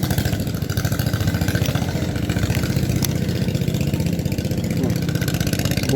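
A small engine running steadily at idle, with a fast even putter.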